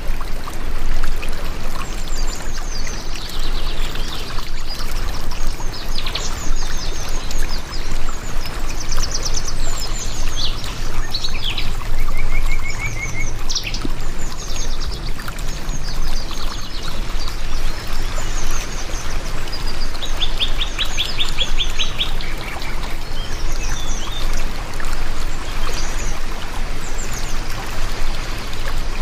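Steady heavy rain with many birds chirping and calling over it: short chirps, trills and rapid call series throughout.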